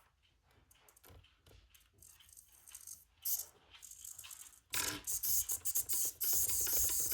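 Micro linear servo driving back and forth under radio control, a rattly buzz of its small gear motor. A few faint clicks come first, then a loud stretch of rattling about three seconds long near the end.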